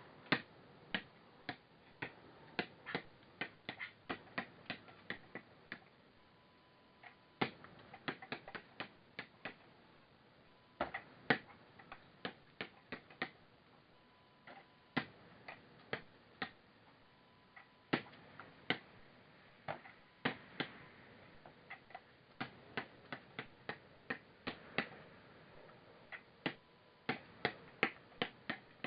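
A run of sharp, irregular clicks and taps, one to several a second, with short pauses between bursts.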